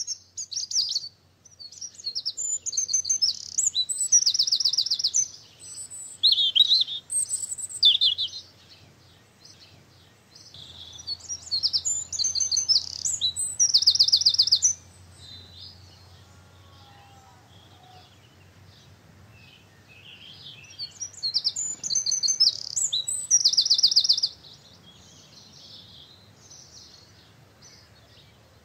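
A songbird singing loud, high, trilling phrases three times, each a few seconds long and ending in a rapid trill, with fainter chirps between.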